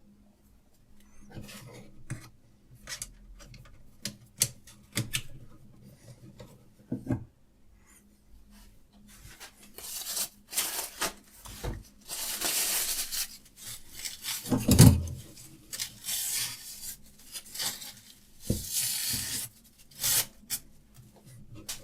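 Diamond sharpening stone rasping in strokes along a knife blade clamped in a Hapstone RS guided sharpener, after a stretch of light clicks and taps from handling the rig. There is one dull knock about two-thirds of the way through.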